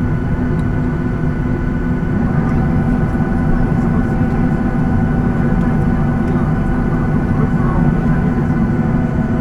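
Steady low rumble inside the cabin of a Boeing 737-800 with its CFM56 engines running, heard through the fuselage, with faint steady whines above it.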